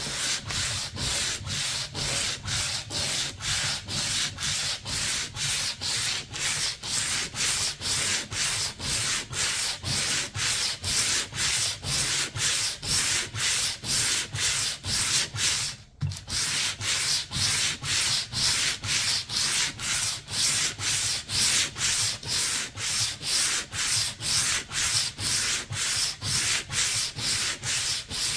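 Hand sanding with sandpaper, steady back-and-forth strokes at about two a second, taking off old paint and finish. The strokes stop for a moment a little past halfway, then carry on.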